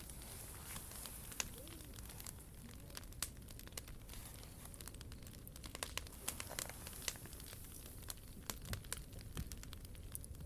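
Wood fire burning in a POMOLY T-Brick Ultra fire box, crackling with irregular small pops and snaps over a faint steady hiss.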